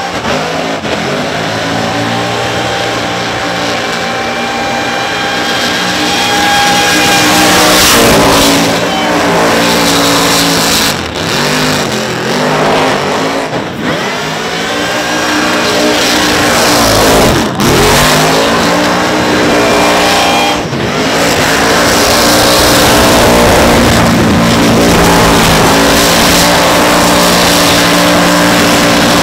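Supercharged big-block Chevrolet V8 in a burnout truck, running on methanol, held at high revs through a burnout. Several times the revs drop sharply and climb straight back.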